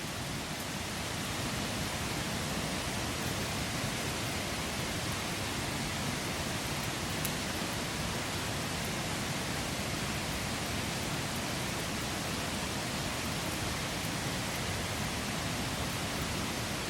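Wood campfire burning: a steady hiss of flame, with a few faint crackles from the wood.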